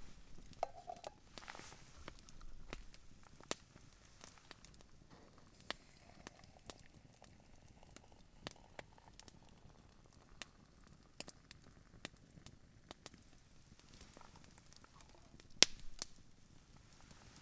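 Wood campfire crackling, with scattered, irregular sharp pops; the loudest pop comes near the end.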